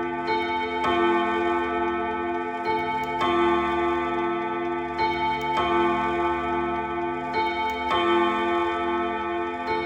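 ODO 36 chiming clock's gong rods ringing, struck in pairs about every two and a half seconds, each stroke leaving a long overlapping ring of several notes.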